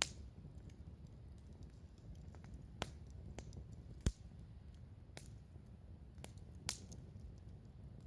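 Wood campfire crackling: a low steady rumble broken by sharp, irregular pops, the loudest near the start and about four seconds in.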